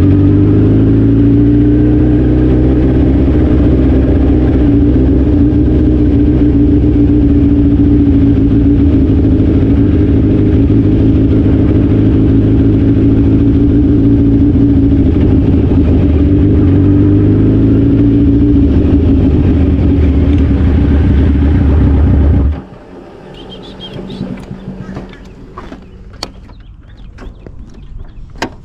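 Suzuki Hayabusa inline-four engine running under way at a fairly steady pitch, with small rises and falls in engine speed. It cuts off abruptly about 22 seconds in, leaving a much quieter stretch of scattered clicks.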